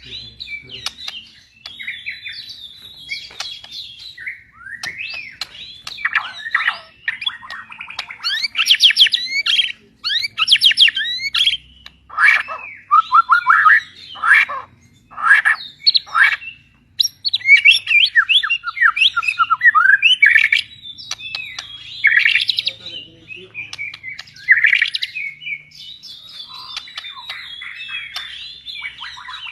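Songbird singing a long, varied run of quick chirps, whistles and trills with some harsher squawky notes. It is loudest through the middle.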